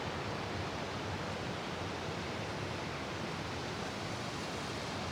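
Steady rushing of a fast-moving mountain creek, an even wash of water noise.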